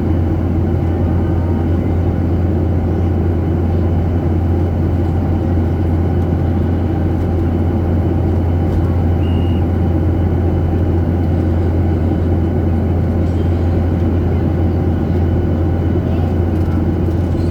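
Steady, loud rumble of a jet airliner heard from inside the passenger cabin, engine and airflow noise with a strong low hum.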